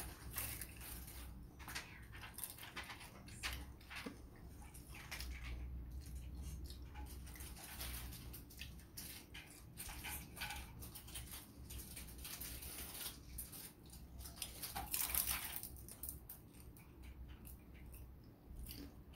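Close-up chewing of crunchy fried food: many quick, crackly crunches mixed with wet mouth sounds, loudest about fifteen seconds in.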